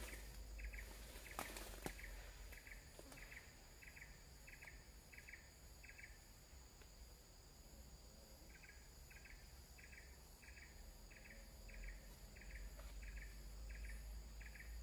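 Faint, even chirping of a cricket-like insect, about two short double chirps a second, pausing for a couple of seconds midway. Under it runs a steady high insect drone.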